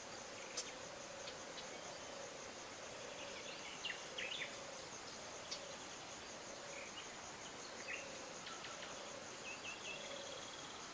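Wasps buzzing by their nest, a faint wavering drone that comes and goes, over a steady high insect trill and a few short bird chirps.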